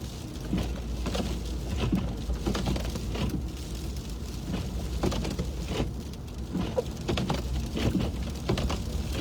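Inside a moving car's cabin: steady low rumble of the engine and tyres on snowy road, with irregular ticks and patter of freezing rain and sleet striking the windshield.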